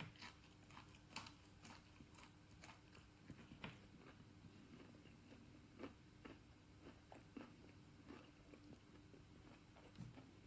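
Faint chewing of a meat-free chicken pie with rock-hard pastry: irregular small crunching clicks, busiest in the first few seconds, over a faint steady hum.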